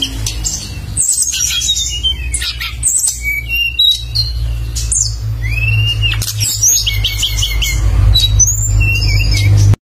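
Songbird singing non-stop: quick chirps, sharp whistled bursts and gliding notes in fast succession, over a steady low hum. The sound cuts out to silence for a moment just before the end.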